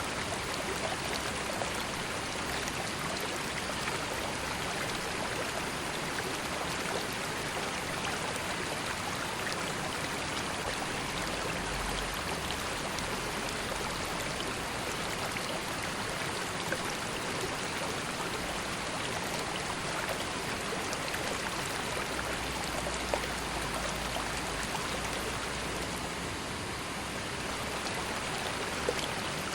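Calm river flowing steadily: an even wash of running water with faint little splashes and trickles.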